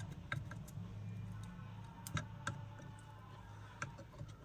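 Light, irregular clicks and taps of soldering work, the iron tip and solder touching the circuit board and component legs, over a low steady hum.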